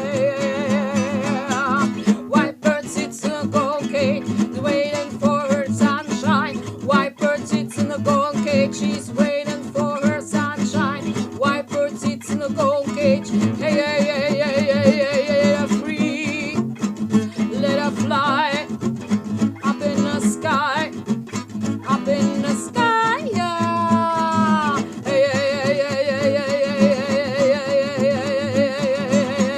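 Song with a voice singing over acoustic guitar, holding long notes with vibrato. A little past two-thirds through, one phrase slides downward in pitch.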